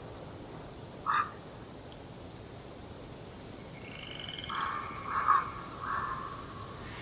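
Harsh, croaking bird calls in a forest: one short call about a second in, then a run of three near the end, with a fainter, higher trilling call from another bird beneath them, over a steady background hiss.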